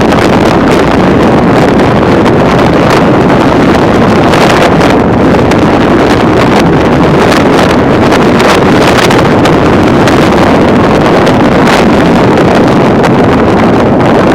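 Strong windstorm winds of 40–50 mph gusting to 60 mph, buffeting the microphone in a loud, continuous rush broken by frequent brief gust blasts.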